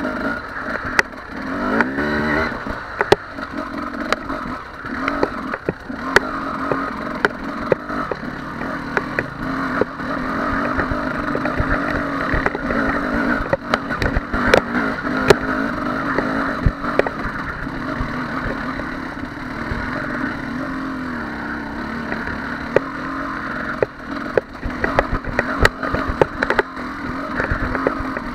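Husqvarna 300 TE two-stroke enduro motorcycle engine working at low revs up a steep, rocky climb, its revs rising and falling with the throttle. Frequent sharp knocks and clatter from rocks and the bike's chassis run through it.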